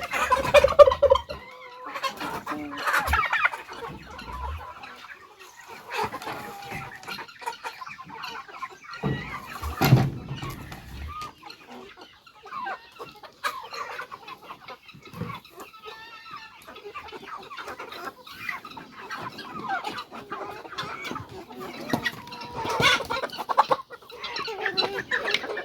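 A flock of chickens clucking and calling throughout, with one sharp thump about ten seconds in.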